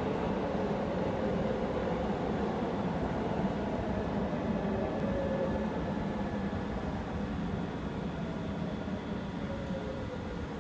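Electric train running at the station over a steady rumble, its motor whine slowly falling in pitch as it slows.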